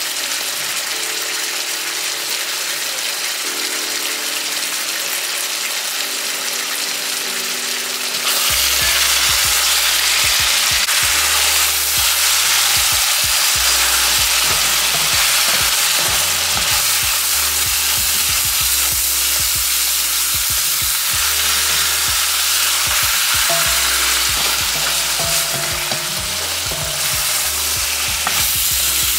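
Chicken pieces and onions sizzling in a hot wok; from about eight seconds in the sizzle gets louder and a spatula scrapes and turns the pieces, with many short scrapes. Background music plays underneath.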